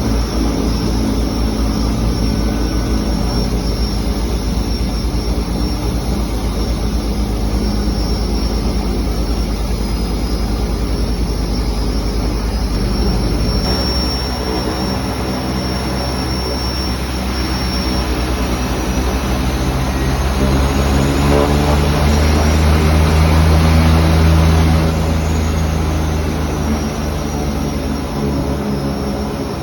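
De Havilland Canada Twin Otter seaplane's twin turboprop engines and propellers running steadily. Power comes up about two-thirds of the way through, with a rising high whine, then eases off a few seconds later.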